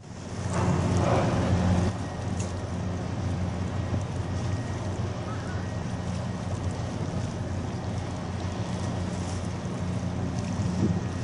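RORO cargo ship's engines droning steadily in a low hum, with wind noise on the microphone that is loudest for the first couple of seconds.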